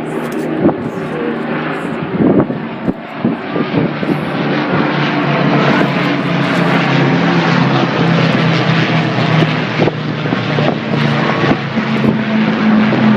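Propeller-driven aircraft flying past low overhead, its engine drone growing louder about a third of the way in and then holding steady and loud.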